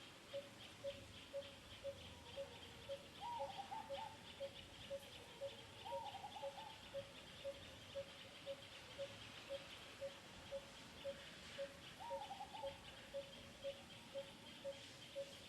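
Quiet outdoor animal ambience: a steady high chirring, a short low note repeating about twice a second, and three brief higher calls.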